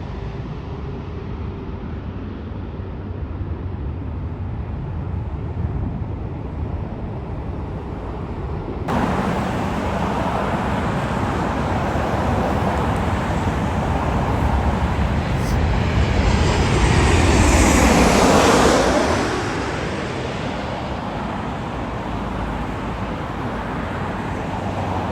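A jet airliner passing, its noise swelling to a peak about three-quarters of the way through and then dying away, over a steady rumble of traffic and airport noise. The background changes abruptly about nine seconds in.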